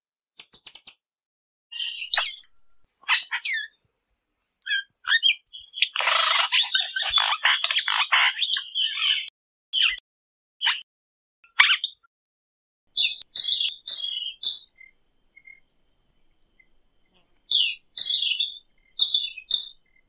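Wild bird calls, a yellow-bellied tanager's followed by a yellow-rumped cacique's: short sharp chirps and brief phrases, with a dense stretch of loud chattering calls a little before the middle.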